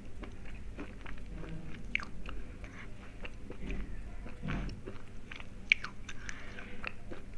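A person chewing hard, chalky slate pencil close to the microphone, with many small dry crunches and crackles and one sharp, louder crack a little over halfway through.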